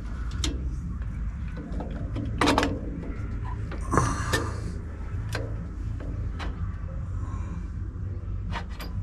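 Scattered knocks and clinks of a Holley 350 carburettor and its fittings being handled and set back in place, the sharpest about two and a half and four seconds in, over a low steady hum.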